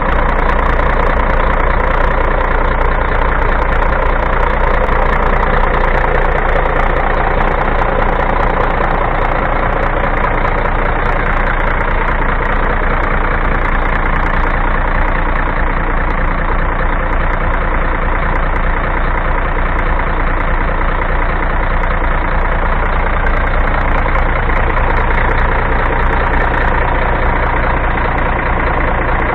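Volvo FH12 380 truck's 12.8-litre six-cylinder diesel engine idling steadily.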